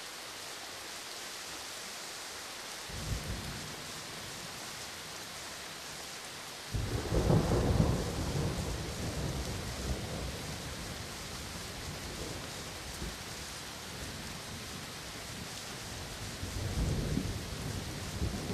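Steady rain with thunder: a short low rumble about three seconds in, then a sudden loud thunderclap around seven seconds that rolls on and slowly fades, and another rumble building near the end.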